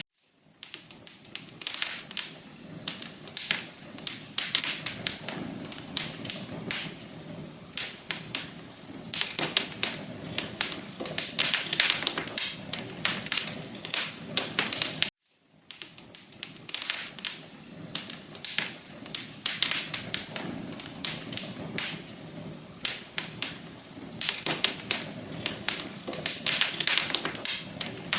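Wood fire crackling in a fireplace: a dense run of sharp pops and snaps over a low rushing hiss. The sound cuts out briefly at the start and again about halfway through.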